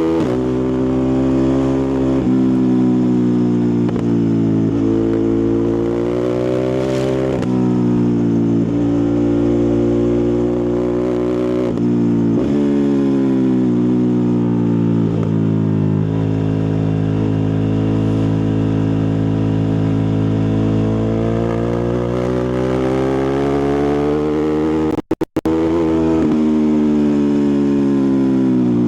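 Ducati Multistrada 1260 Pikes Peak's 1262 cc V-twin engine and exhaust under way. The engine note climbs and falls as it accelerates and eases off, with sudden drops in pitch at gear changes. Near the end the sound drops out twice for an instant.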